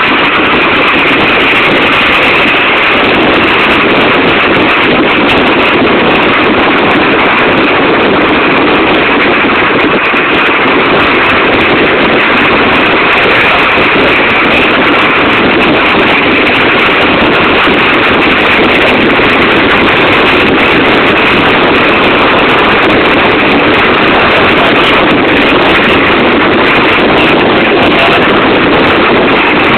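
Steady wind rush over the microphone mixed with engine and road noise from an open-cockpit Tiger Cat E1 kit car being driven, loud and unchanging.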